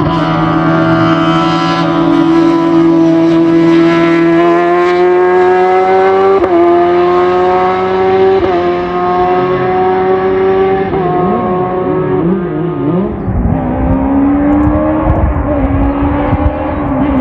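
Race car engine at high revs under hard acceleration, its note climbing slowly through a long pull with brief dips about a third and halfway through, wavering for a moment, then dropping to a lower pitch about three-quarters through.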